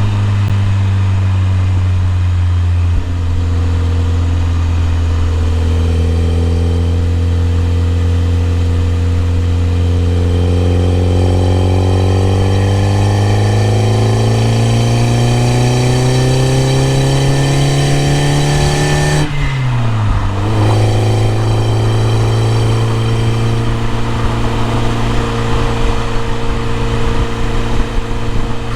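BMW E30 M3's S14 four-cylinder engine pulling steadily, its pitch rising slowly as the car gains speed, then dropping suddenly about twenty seconds in at a gear change, after which it runs at a steady pitch.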